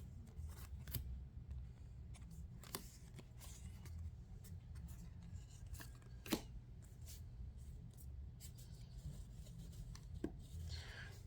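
Faint, scattered clicks and rustles of Yu-Gi-Oh! trading cards being handled and sorted by hand.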